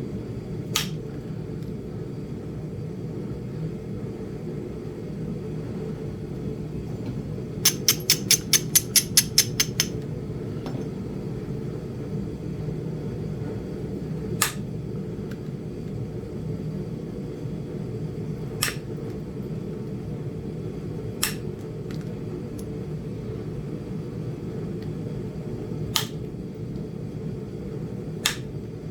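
Flintknapping on a small piece of Flint Ridge chert: sharp single clicks of tool striking stone every few seconds, and a quick run of about a dozen light clicks about eight seconds in. A steady low hum runs underneath.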